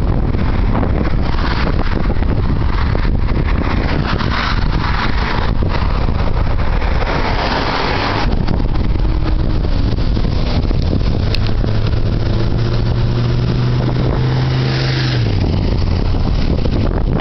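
Strong wind buffeting the microphone throughout. A motor vehicle's engine hum joins it about eight seconds in and falls away about fifteen seconds in.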